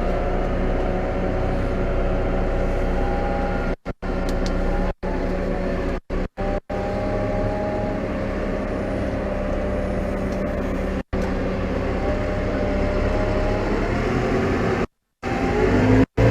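New Holland T5.120 tractor's four-cylinder diesel engine running steadily while pulling a plough through the field. The sound cuts out completely several times for a split second, and once for about a third of a second near the end.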